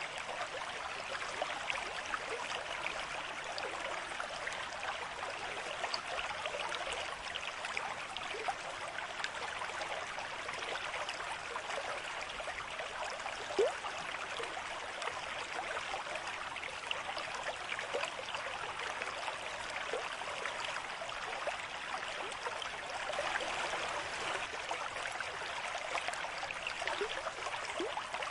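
A small stream trickling and babbling steadily, with one brief louder plop about halfway through.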